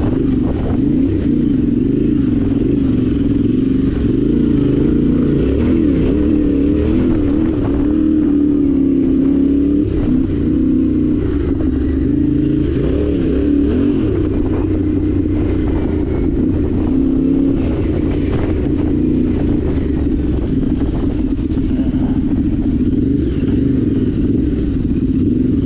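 Yamaha Ténéré 700's parallel-twin engine running steadily under way, its note drifting gently up and down with the throttle.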